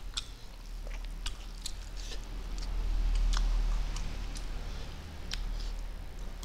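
Mouth noises of people eating meat and rice with their fingers: chewing and lip-smacking heard as a scatter of small wet clicks, over a low steady hum.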